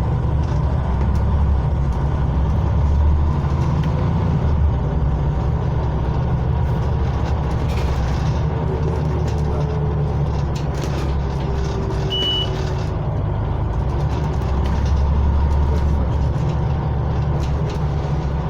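Scania OmniCity single-deck bus heard from inside the passenger cabin while driving: a steady low engine and drivetrain drone with small rattles. A short, high single beep sounds about twelve seconds in.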